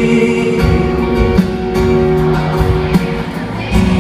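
Live band music between sung lines: guitar and drums under held notes.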